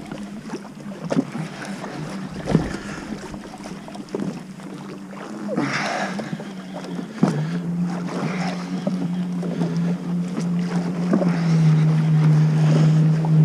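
Jet ski engine running steadily at low speed. Its hum turns louder and slightly lower about halfway through and cuts off at the very end. Water splashes and wind buffet the microphone, with a few sharp knocks.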